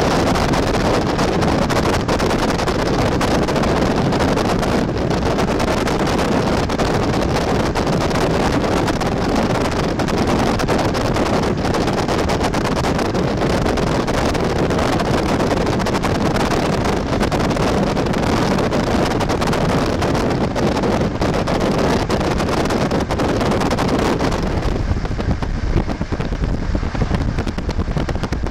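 Steady rushing rumble of a moving passenger train, with wind buffeting the microphone. Near the end the hiss falls away and a deeper low rumble takes over.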